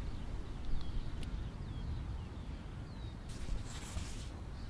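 Faint bird chirps, several short calls scattered over the first three seconds, over a steady low outdoor rumble; a brief hiss about three seconds in.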